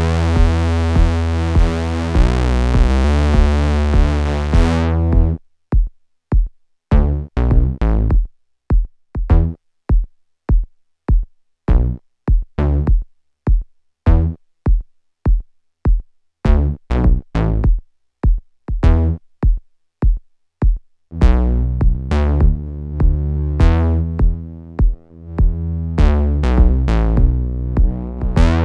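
Eurorack synthesizer patch played through the Swenigiser Proto VCF/A filter and VCA, its input driven hot for a gritty tone. A bright, buzzy sustained sequence with a steady low pulse about twice a second changes about five seconds in to short gated notes with silence between them. It opens back into sustained tone about 21 seconds in.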